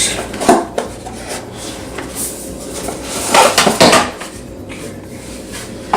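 Cardboard box and its packed contents being handled: rubbing and scraping with a few knocks, loudest a little past halfway, as the remaining items slide out of the box.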